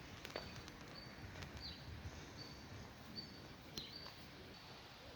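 A small bird chirping: short, high chirps repeated about once or twice a second over faint outdoor background noise, with a couple of soft clicks.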